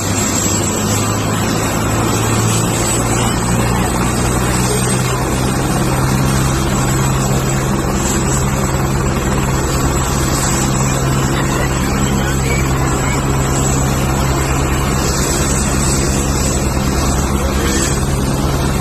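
Helicopter running steadily, its rotor and engine giving a loud, even low hum with a thin high whine above.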